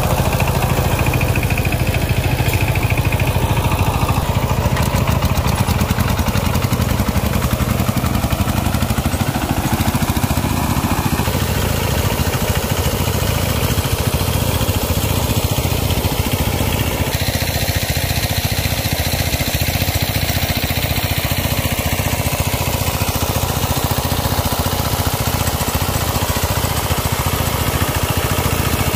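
A small engine running steadily at an even speed, with a dense, continuous low rumble.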